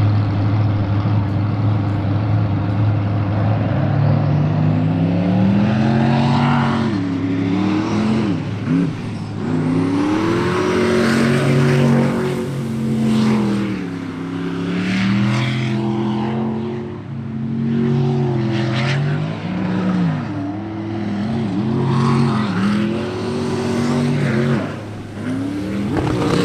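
Unlimited-class sprint boat engine racing through the course, its pitch rising and falling again and again as it is throttled up on the straights and backed off into the turns, over a steady low hum.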